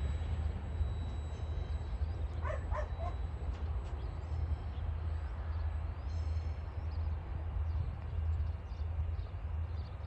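Low steady rumble of a coal train's hopper wagons rolling away along the track. About two and a half seconds in, a few short, high yelps cut in briefly.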